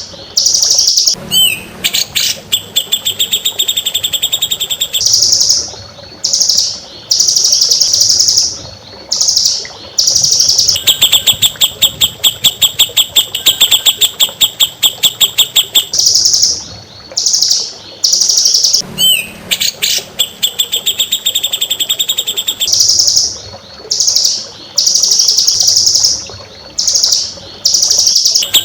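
A songbird singing loud, high-pitched phrases: long runs of rapid, evenly spaced notes alternating with buzzy held notes and a few sweeping calls. The same sequence comes round again about eighteen seconds later, as in a looped training recording.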